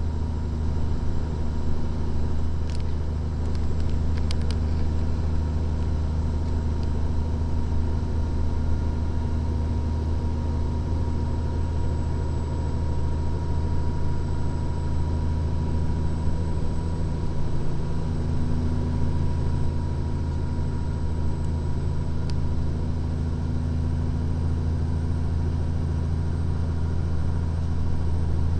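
Cab interior of a 2014 Freightliner Columbia glider tractor on the move: the diesel engine and road noise as a steady low drone, with a few faint clicks about three and four seconds in and again near the end.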